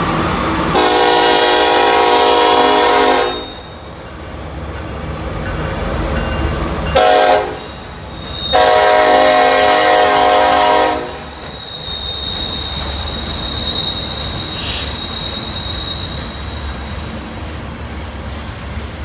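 Locomotive air horn on a loaded BNSF coal train sounding three blasts: long, short, long. After that the train rolls by with a steady rumble and a thin high squeal from the wheels.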